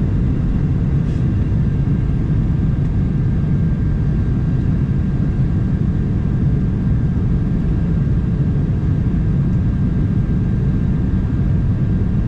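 Cabin noise inside a Boeing 737-900 on final approach: the steady low rumble of its CFM56 engines and rushing air, with a thin steady whine running through it.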